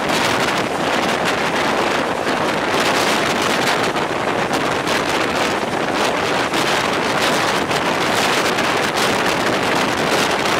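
Wind buffeting the microphone over the steady rush of a passenger train running along the track.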